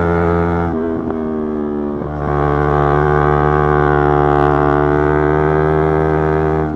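Yamaha YZF-R3's parallel-twin engine running at steady high revs under way, with a brief break in the note about a second in before it settles back to a steady drone.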